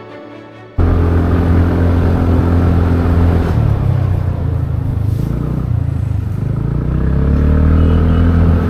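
Motorcycle engine running under way: a steady low drone that cuts in suddenly about a second in. Its pitch dips around the middle and climbs again near the end.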